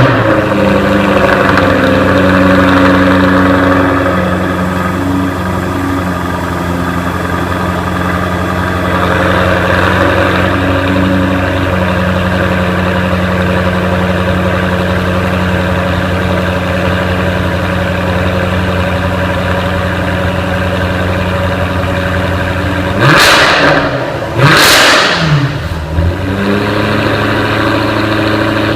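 Exhaust of a 2015 Jaguar F-Type R Coupe's supercharged 5-litre V8, idling just after start-up, its idle easing down over the first few seconds. Near the end it is revved twice in quick blips, then drops back to a steady idle.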